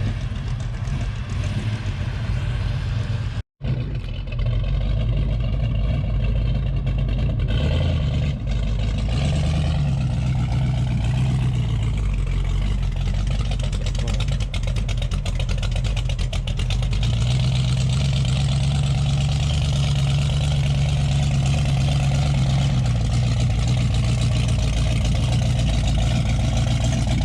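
Classic V8-era car engine idling and creeping along, a steady low rumble with slight rises and falls in pitch. The sound cuts out for a moment about three and a half seconds in.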